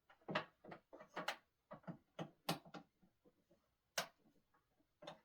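An irregular series of sharp clicks and light knocks, about a dozen, from small hard objects being handled.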